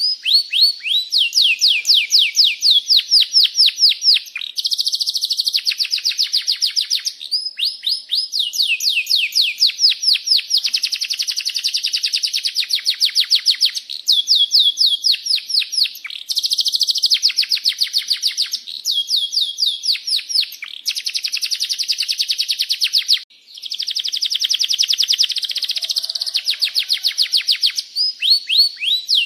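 Domestic canary singing a long, continuous song of rapid repeated trills, phrases of fast falling chirps running one into the next with only a brief break.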